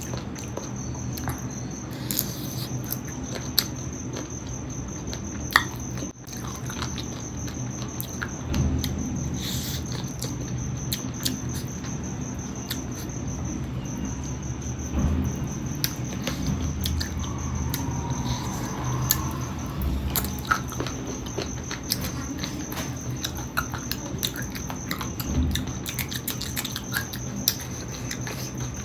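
A person chewing and biting on chicken feet curry with rice: wet mouth sounds and small scattered crunching clicks. A steady high-pitched tone and a low hum run underneath.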